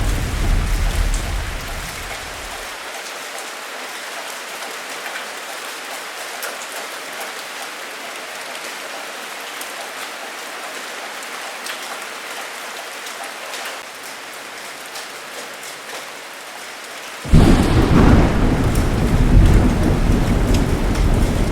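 Thunderstorm: steady heavy rain pattering throughout. A deep thunder rumble fades out over the first few seconds, and near the end a sudden loud thunderclap breaks in and rolls on over the rain.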